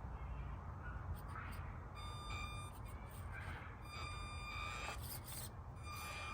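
Small electric RC crawler motor whining in short stretches of throttle, with a faint high tone that comes and goes, over a steady low rumble.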